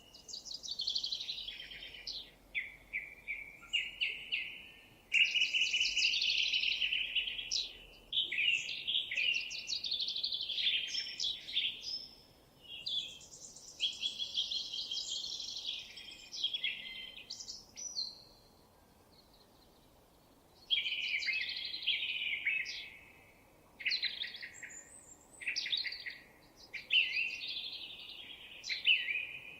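A songbird singing long, rapid, varied phrases of chirps and trills, with a pause of a couple of seconds a little past the middle.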